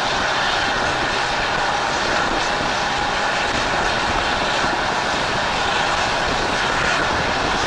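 Train running on the line: a steady, unbroken wash of wheel and track noise.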